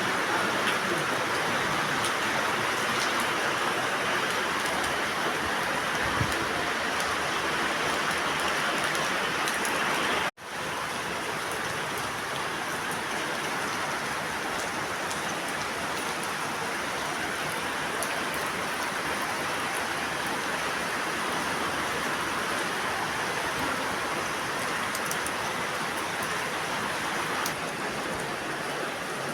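Very heavy rain falling as a steady, dense hiss. It breaks off for an instant about ten seconds in, then carries on slightly quieter.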